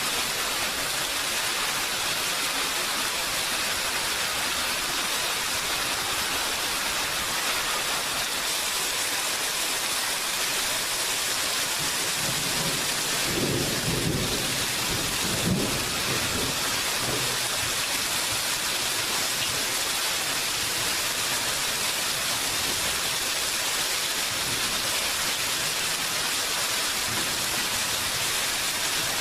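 Steady rain falling, an even hiss throughout, with a roll of thunder rumbling up about halfway through and a sharper crack at its peak before it fades back into the rain.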